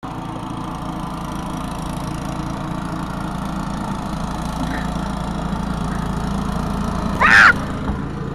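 A small engine running steadily, with a brief high-pitched sound about seven seconds in.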